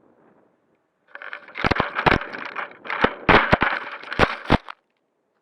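Rough crackling and rustling noise with a string of about ten sharp knocks, starting about a second in and cutting off abruptly near the end.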